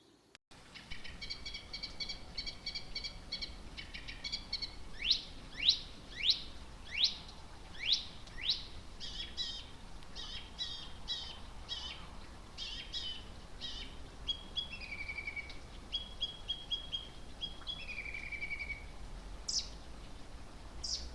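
A songbird singing a varied song: quick repeated notes, then about six loud rising whistles, then fast chattering trills and lower falling notes, with two more high whistles near the end.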